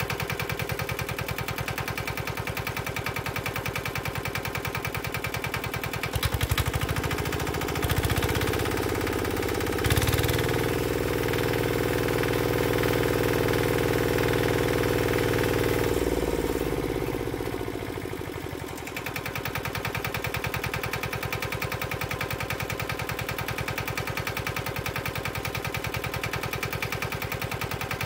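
Petter AC1Z single-cylinder diesel engine idling with a steady, even beat. It is revved up in a few quick steps, held at higher speed for several seconds, then eased back down to idle.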